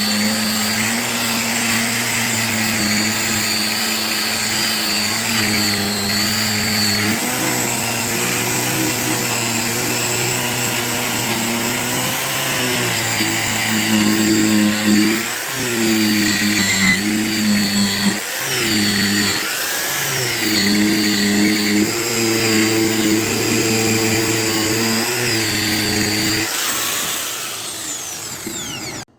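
Electric buffing motor running steadily, its pitch dipping briefly a few times in the middle, then winding down near the end.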